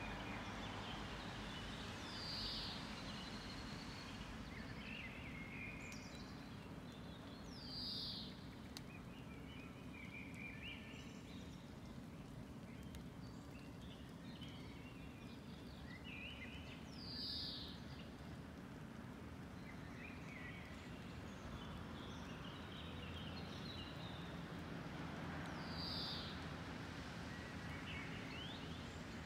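Wild birds calling over a steady low background rumble. A loud downward-sliding call comes four times, about every nine seconds, with softer chirps in between.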